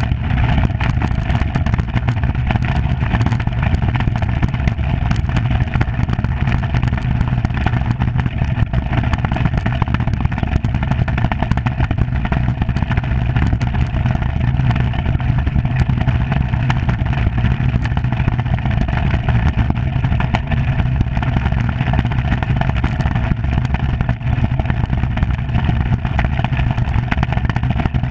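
Steady rumble and hiss of a Skimmer 45 iceboat's runners skating over lake ice, with many small ticks and clicks throughout.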